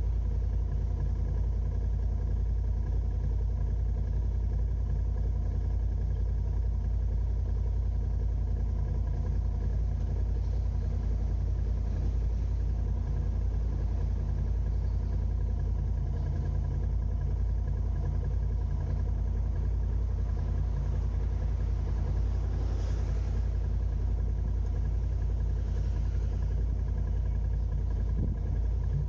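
A car's engine and road noise while driving, a steady low rumble with a faint hum. A brief swell of hiss comes about 23 seconds in.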